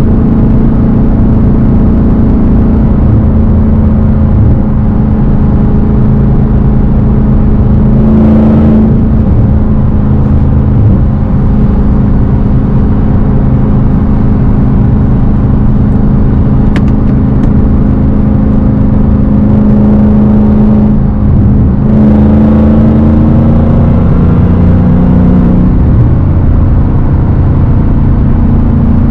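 Straight-piped Dodge Hellcat's supercharged 6.2-litre V8 running loud at steady revs, its engine note changing briefly twice, about a third of the way in and again about three quarters through.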